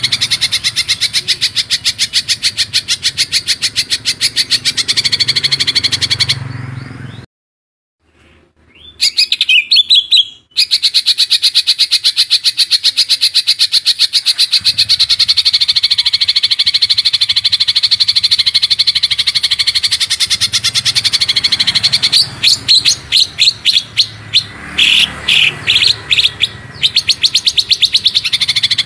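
A songbird's very fast rolling trill, a dense stream of rapid high notes. About a quarter of the way in it cuts out briefly and a short call with quick pitch glides follows. Towards the end the trill breaks into short separate bursts before running on again.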